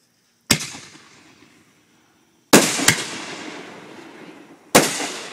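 Consumer aerial fireworks exploding: a sharp bang about half a second in, two more close together a little past halfway, and another near the end, each trailing off in a fading echo.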